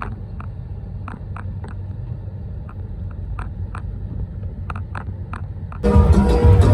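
Water from a faulty shower spattering in scattered drops, heard as irregular sharp ticks over a steady low rumble. Music comes in loudly near the end.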